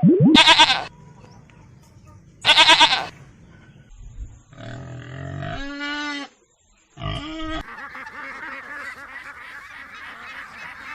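A series of animal calls. Two short calls come about two seconds apart, then a longer call that wavers in pitch. After a brief gap there is one more short call, followed by a steady hiss.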